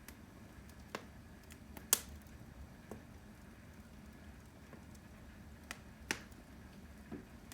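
Firewood burning in a fireplace, crackling with irregular sharp pops, the loudest about two seconds in.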